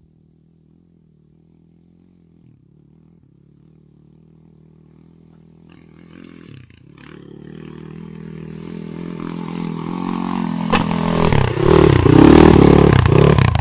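Enduro dirt bike engine running under throttle, coming closer and growing steadily from faint to loud over about ten seconds. A sharp click sounds about eleven seconds in.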